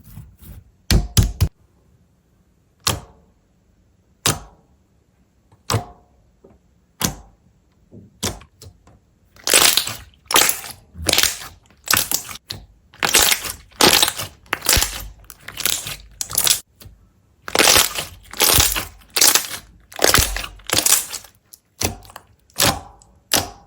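Crisp cracking and crunching as something brittle is broken or crushed. Single sharp cracks come about every second and a half at first. From about ten seconds in they turn into longer, closer-set crunches, roughly one a second or faster.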